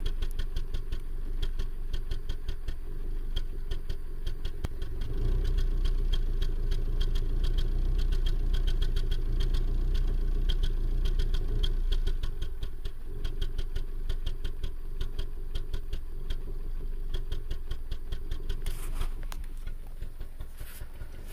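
Subaru EJ253 2.5-litre flat-four engine running with a rapid, regular knock. The low engine note grows louder from about five to twelve seconds in. The owner is unsure whether the knock means jumped timing, rod knock or a bad timing-belt tensioner.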